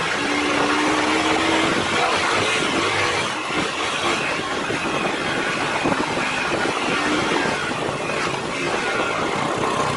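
Motorcycle engine running while riding, its note rising slowly in the first two seconds, under a steady rush of wind and road noise on the microphone.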